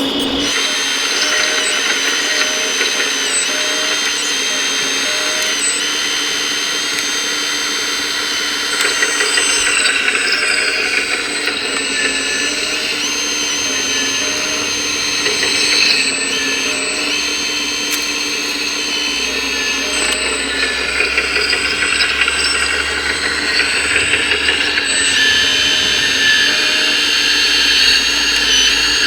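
Electric motors and hydraulic pumps of 1:14 scale RC construction machines running with a steady, many-toned whine. Their pitch dips briefly and repeatedly as the machines work.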